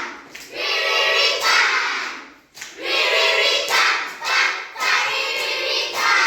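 A group of young children singing a letter-sound rhyme together, in phrases of about two seconds with short breaks between them.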